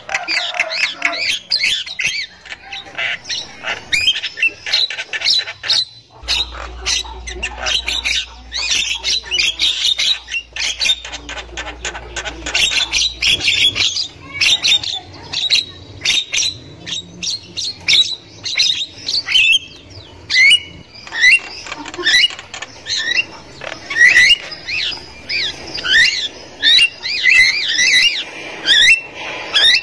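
Javan mynas chattering: a rapid, almost unbroken run of harsh squawks and short whistled notes.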